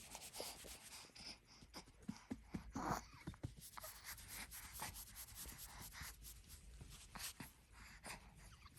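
Faint rustling and scratching with many scattered small clicks, like something rubbing against fabric or the microphone.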